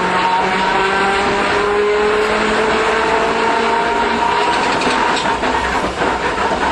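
An older Iyotetsu Matsuyama city tram running, heard inside the car. Its motors whine, rising slowly in pitch as it gathers speed. From about five seconds in, wheel-on-rail clicks and clatter join in.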